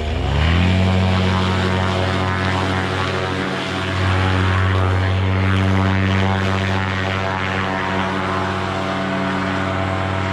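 Paramotor engine and propeller throttling up for takeoff, rising in pitch over the first half-second, then running steadily at high power. It dips briefly about three and a half seconds in and is a little louder from about four seconds.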